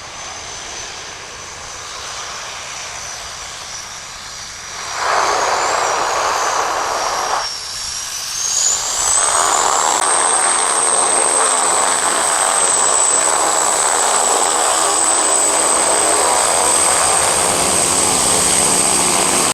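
Aircraft engine and propeller running, with a steady high-pitched whine over a broad rushing noise. It grows louder about five seconds in, dips briefly, then rises in pitch and holds loud and steady until it cuts off abruptly.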